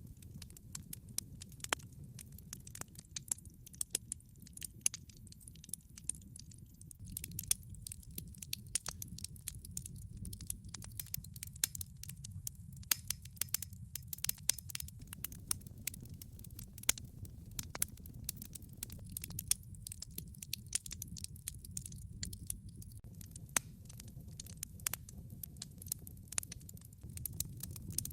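Wood fire in a fireplace crackling: frequent irregular sharp pops and snaps from the burning logs over a low, steady rumble of the flames.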